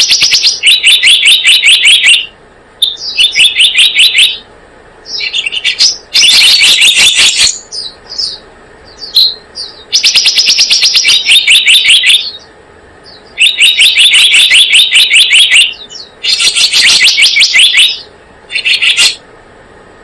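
Looped lure-call recording of the selendang biru songbird: loud, rapid trilled phrases of high chirping notes, each lasting a second or two, repeated with short pauses and a few scattered single chirps between them.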